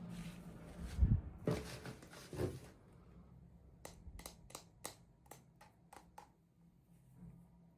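Hands handling plastic toy packaging and small toy pieces: a dull knock, a short rustle, then a quick run of about nine small sharp clicks.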